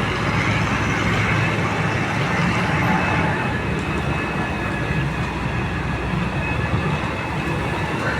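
Heavy-duty excavator's diesel engine running steadily, with a faint high whine over the low drone.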